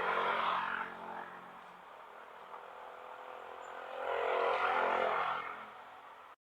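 Motor traffic passing close by on a city road, engines running steadily, swelling louder twice: right at the start and again about four seconds in.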